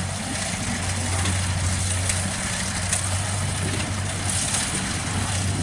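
Kubota DC70 combine harvester's diesel engine running steadily, a constant low hum under the broad, even noise of the machine at work.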